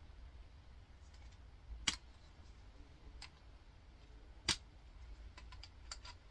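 Scattered small clicks and taps of a small synchronous motor being taken apart by hand, with two sharper knocks about two and four and a half seconds in.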